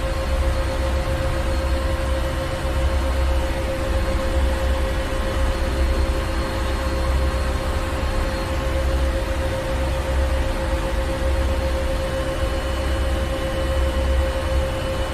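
Ship engine room: heavy machinery running steadily, a deep low rumble that swells and eases every second or so, under a constant hum with a steady mid-pitched tone.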